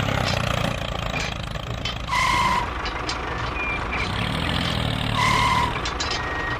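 A vehicle engine running steadily, with two electronic beeps about half a second long and roughly three seconds apart, like a truck's reversing alarm.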